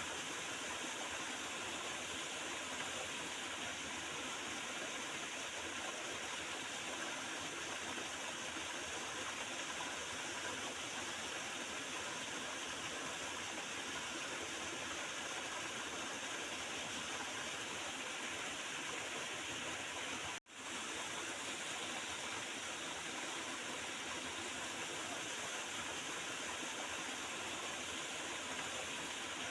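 A small river gurgling steadily. The sound cuts out for an instant about twenty seconds in and swells straight back.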